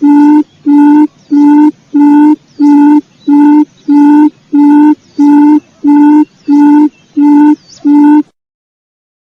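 Recorded quail lure call: a low hooting note repeated evenly about one and a half times a second. It cuts off suddenly near the end, leaving dead silence.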